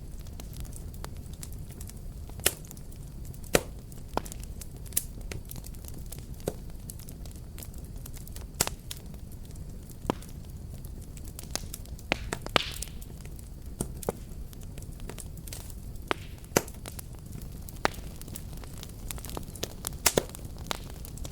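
Fireplace fire crackling: a steady low rumble of flames with scattered, irregular sharp pops, and a brief hiss about twelve seconds in.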